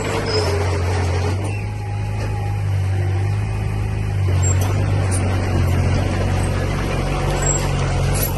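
Diesel engine of heavy earthmoving machinery running steadily, with a low, even drone.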